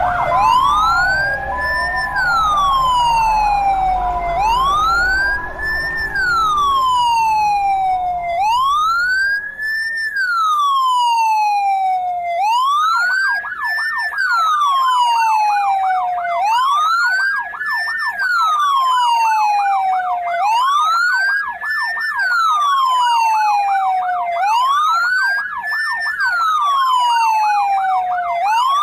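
Ambulance siren wailing, each cycle rising and then falling more slowly, about once every four seconds. Around the middle a second, fast warbling siren tone joins it. A low rumble runs under the first third.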